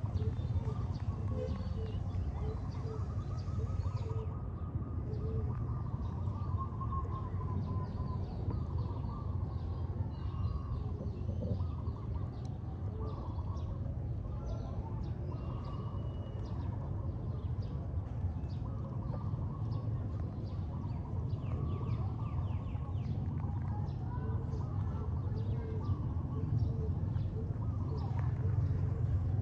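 Small animal chirps and squeaks over a steady low background noise.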